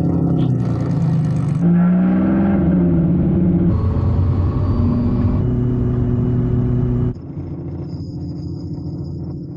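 Toyota GR GT's twin-turbo V8 engine running and revving, heard in a series of short clips that cut from one to the next about every two seconds. After about seven seconds it is quieter and steadier.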